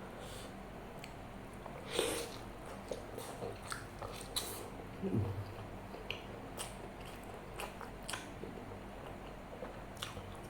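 Close-miked eating: wet chewing and biting with scattered short crunchy clicks, the loudest about two seconds in, and a brief low mouth sound about five seconds in.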